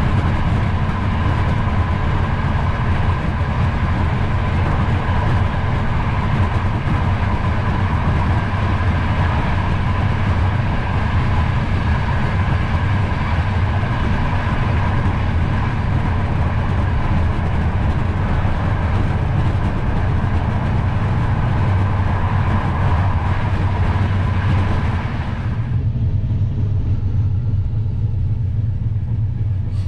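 Running noise of a passenger train carriage heard from inside: a steady low rumble with the rush of wheels on rails. About 26 seconds in, the hissing upper part of the noise drops away suddenly, leaving the low rumble.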